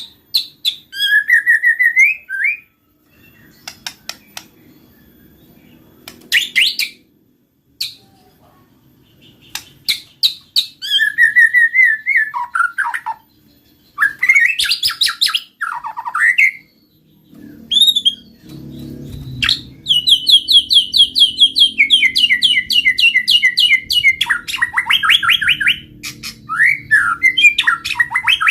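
White-rumped shama (murai batu) singing vigorously, mixed with a canary: varied phrases of chirps, clicks and rising and falling whistled glides, then a long run of rapid trills from about two-thirds of the way through.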